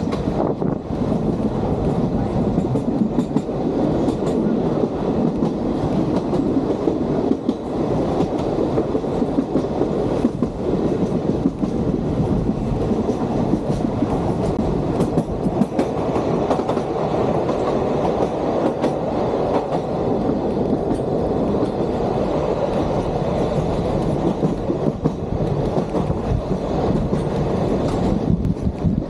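Vintage Sóller railway train running along the narrow-gauge track: a steady rumble, with scattered clicks of the wheels over the rails.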